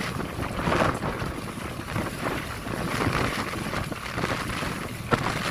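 Wind buffeting the microphone aboard a passenger motorboat in rough seas, over a dense rumble of water against the hull, with surges of spray and a sharp slap of a wave near the end.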